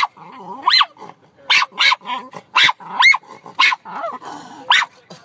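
A dog barking repeatedly, with short, sharp, high-pitched barks coming about two a second.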